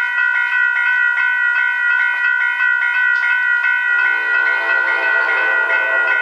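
A grade-crossing bell ringing in regular strokes, about four a second. About four seconds in, an approaching train's horn joins it and sounds on.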